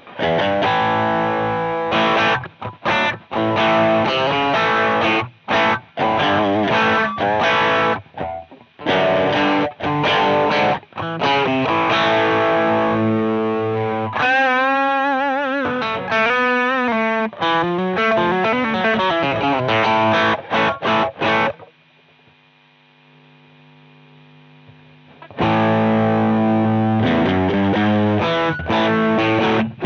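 Distorted electric guitar played through a Jeds Peds Onosecond high-gain overdrive pedal: short, chopped chords and riffs, with a wavering vibrato bend about halfway. The guitar then falls quiet for about four seconds, leaving only a faint steady hum, before the riffing starts again.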